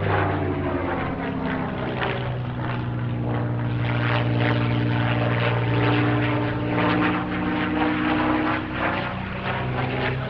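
A Spitfire Mk IX's Rolls-Royce Merlin V12 engine running at display power as the fighter flies past. The sound swells toward the middle, and its pitch slides down in the later seconds as the aircraft passes.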